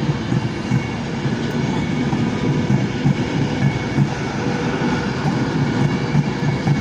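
A train moving along the tracks, a steady low rumble from its wheels and running gear.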